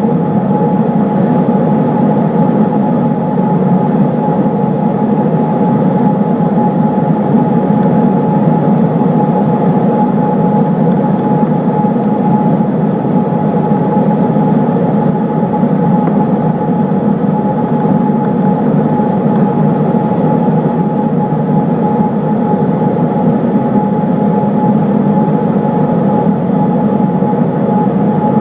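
Cessna 152's four-cylinder Lycoming engine and propeller running at a steady power setting in flight, a loud, even drone with a thin steady tone over it.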